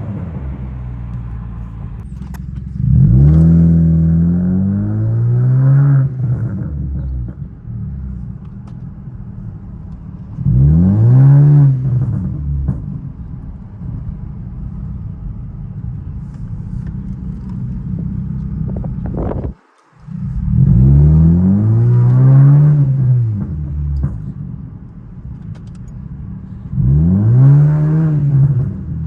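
2012 Honda Civic 1.8-litre four-cylinder idling through an aftermarket eBay Fireball muffler exhaust, revved four times. Each rev rises and falls over two to three seconds before settling back to idle.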